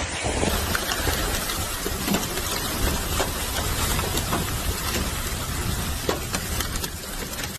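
Windstorm: strong wind rushing and buffeting the microphone, with rain.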